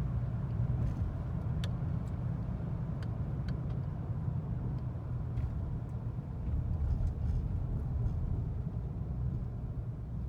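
Chevy 5.3 V8 on true dual exhaust with no mufflers, resonators or third cat, running under way in a steady low drone that swells a little about two-thirds of the way through.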